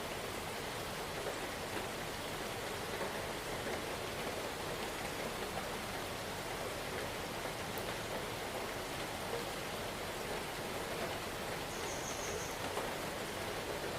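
Steady, even rain falling, a constant hiss of drops with no let-up.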